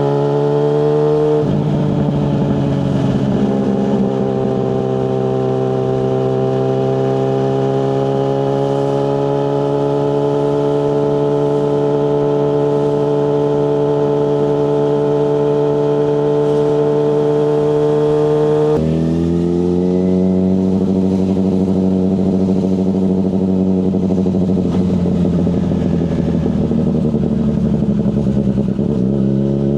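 A Yamaha FZ6S's 600cc inline-four engine is ridden on the road. Its pitch rises and then drops sharply twice, about a second and a half in and again about two-thirds of the way through, as it is shifted up. Between the shifts it pulls in a long slow rise, then eases off and picks up again near the end.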